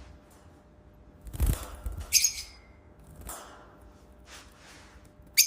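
Pet lovebirds chirping in short, high calls, one about two seconds in and a quick run near the end, with a dull thump and rustle about a second and a half in.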